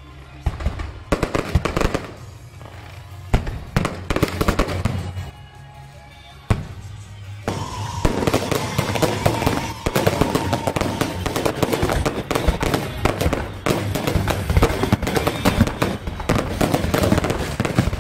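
Aerial fireworks launching and bursting in a rapid run of sharp bangs and crackling. They come in scattered clusters for the first six seconds or so, then build into a dense, continuous barrage from about seven seconds in.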